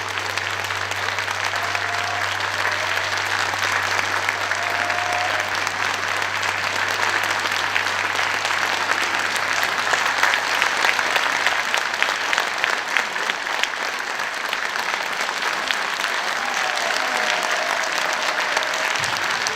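Audience applauding, a long steady round of hand clapping from a hall full of people.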